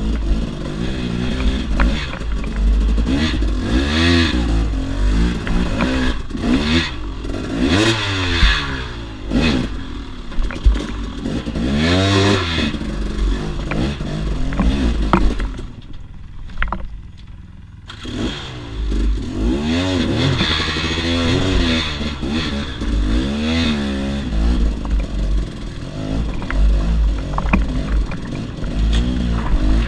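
KTM 300 XC-W two-stroke enduro motorcycle engine revving up and falling back again and again as it is ridden over rough ground, with clattering knocks from the bike. About sixteen seconds in, the engine drops to a low, quieter note for a couple of seconds, then picks up again.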